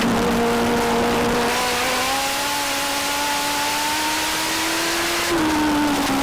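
Legend race car's Yamaha motorcycle engine under power, its pitch climbing slowly for about five seconds, then dropping as the throttle is lifted near the end, over steady wind and road noise.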